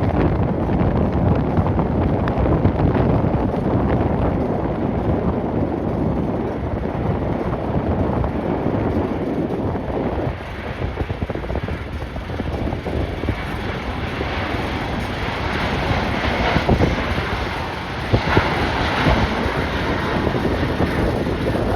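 Strong gusty wind buffeting the microphone with a heavy rumble, and jet airliner engine noise building up in the second half.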